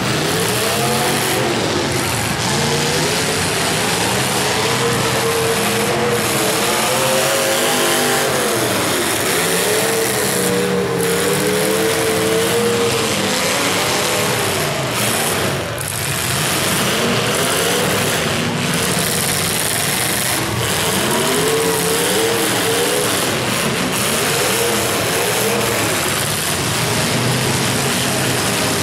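Engines of several full-sized demolition derby cars revving hard, their pitch rising and falling over and over as the cars drive and ram.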